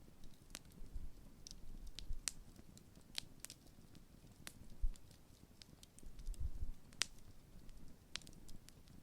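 Large campfire of burning wood crackling, with irregular sharp pops every fraction of a second to a second over a low rumble that swells briefly about six seconds in.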